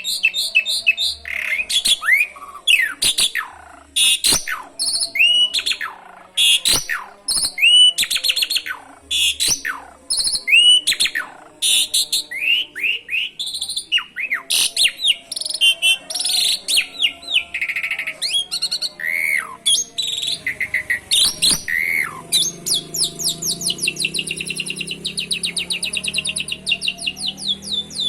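Asian pied myna (jalak suren) in full song: a quick run of varied whistles, sharp falling notes and clicks, breaking about three-quarters of the way through into a long, fast, even trill. The song is stuffed with canary phrases (isian kenari).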